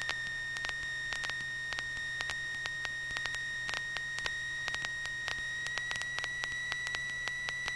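A steady high beeping tone held at one pitch and creeping slightly higher, with faint irregular clicks over a low hum.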